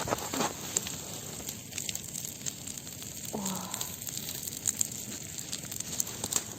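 Bonfire burning: a steady hiss with scattered crackles and pops.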